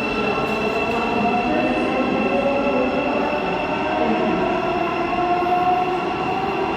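Thameslink electric train at the platform, giving off a continuous whine: steady high tones over tones lower down that drift slightly up and down in pitch, on a constant bed of running noise.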